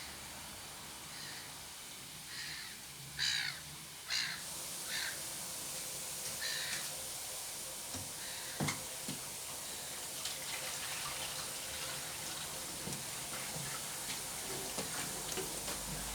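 Water pouring from a jug into a washing machine, a steady hiss that comes in about four seconds in, with a single knock near the middle. Over the first seconds a crow caws about six times in short harsh calls.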